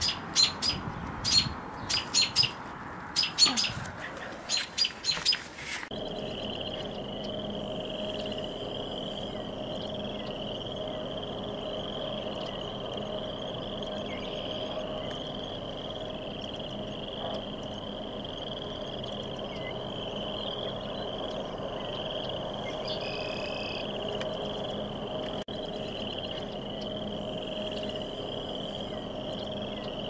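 A bird calling loudly over and over, about ten sharp calls in the first six seconds. The sound then cuts to a steady, high, wavering drone with a fainter low tone beneath it, with a few faint chirps.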